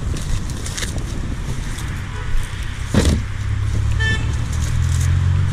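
Steady highway traffic passing, with a thump about three seconds in and a short car horn toot about a second later, as a vehicle's engine drone grows louder.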